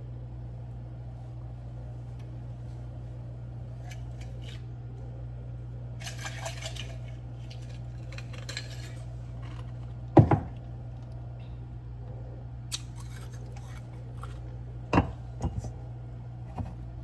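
Cooking utensils clattering against pots and pans: scattered clinks and short scrapes, with a sharp loud knock about ten seconds in and another near the end, over a steady low hum.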